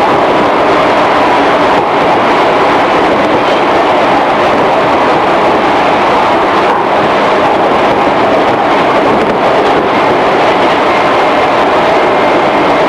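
Onboard running sound of a 211 series electric train, heard inside the motor car MoHa 210: a steady, unbroken rush of wheels, running gear and traction motors with a faint steady whine.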